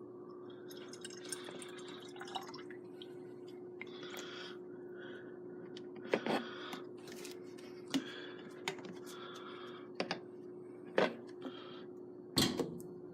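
Liquid scenic cement being mixed and poured into a spray bottle, splashing and dripping. Several sharp knocks of bottles being handled come in the second half, over a steady hum.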